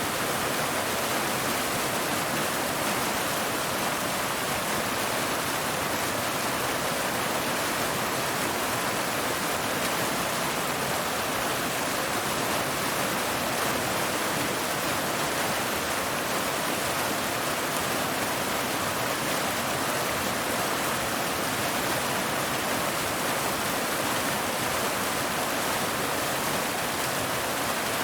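Waterfall: water pouring over rocks as a steady, unbroken rush.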